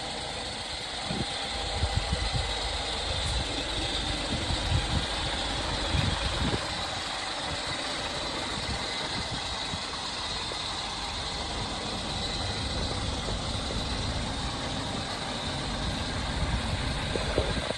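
Scania R480 truck's diesel engine idling steadily, with scattered low thumps in the first several seconds and again near the end.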